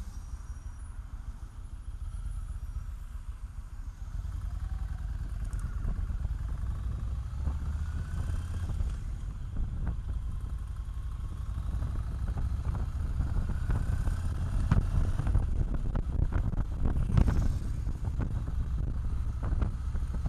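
Motorcycle engine running while the bike is ridden, a steady low rumble that grows louder about four seconds in and louder again in the second half.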